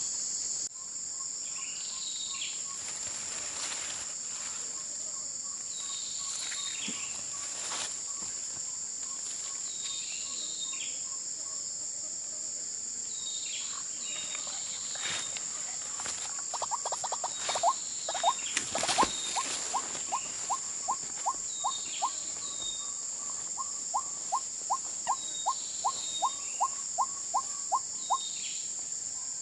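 Steady high-pitched chorus of crickets and other insects. About halfway through, a loud run of short, falling call notes starts and repeats about twice a second.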